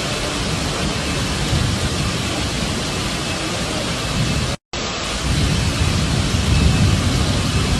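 Steady hiss of heavy rain pouring down. A brief cut to silence comes just past halfway, and after it a deeper rumble is stronger under the rain.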